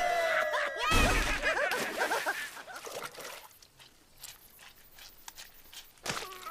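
Cartoon sound effects: a loud hit about a second in, followed by a flurry of short squeaky cries that fade away, after the end of a music cue.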